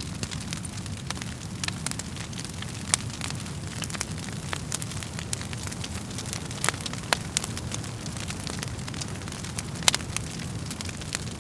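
Wood fire burning in a fireplace: a steady low rumble of flames under irregular sharp crackles and pops of the burning wood, with a couple of louder pops about three seconds in and near the end.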